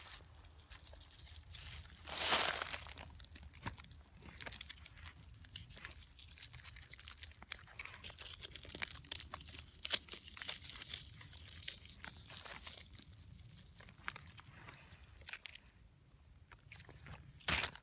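Irregular crunching, crackling and rustling with many small clicks, louder for a moment about two seconds in and again near the end.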